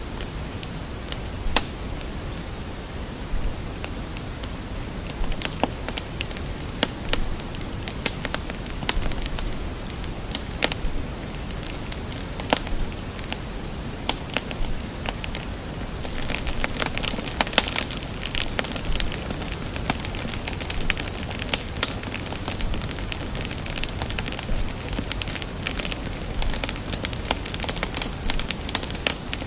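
Fire crackling: irregular sharp pops and snaps over a low, steady rush, with the popping growing denser about halfway through.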